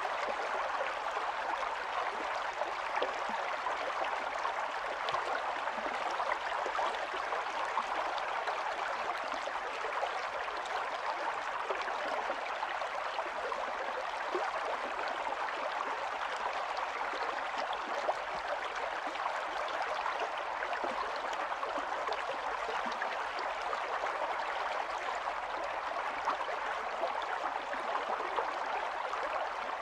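Small stream of running water babbling and gurgling steadily over stones.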